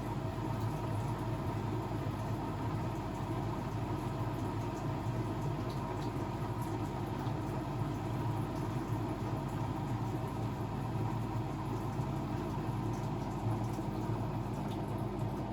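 Blomberg WAF 7442 SL front-loading washing machine running mid-cycle, a steady low hum.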